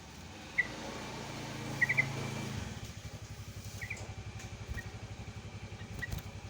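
Short sharp chirps from a sooty-headed bulbul (trucukan): single notes and a quick run of three, spaced seconds apart. Under them runs the steady low putter of a motorcycle-type engine.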